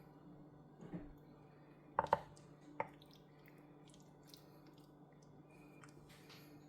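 A few light kitchen knocks and clicks, such as a utensil or dish being handled: one about a second in, two in quick succession about two seconds in, and one more shortly after, over a faint steady hum.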